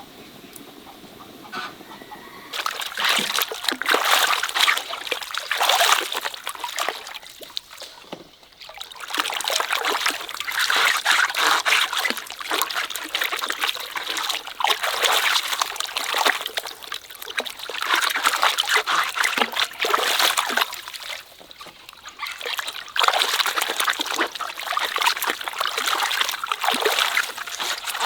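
Water splashing and trickling in several spells a few seconds long, with short breaks between them.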